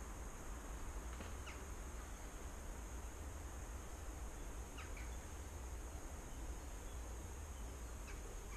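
Outdoor ambience: three brief bird calls, each a quick pair of chirps, a few seconds apart, over a steady low rumble and hiss.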